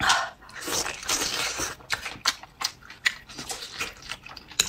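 Close-miked eating of a boiled dumpling dipped in soy sauce. A wet bite at the start is followed by chewing, with a run of soft, moist mouth clicks and squishes, a few a second.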